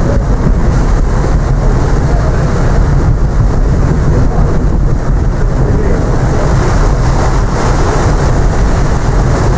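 Wind buffeting the microphone on the open deck of the moving paddle steamer PS Waverley, a steady low rumble with the ship's running noise underneath.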